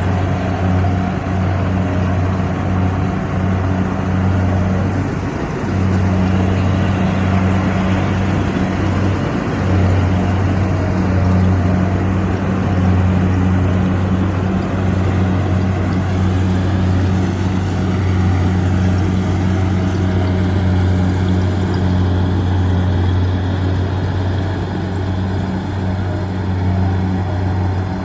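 Kubota combine harvester's diesel engine running steadily: a loud, even drone that dips briefly a couple of times.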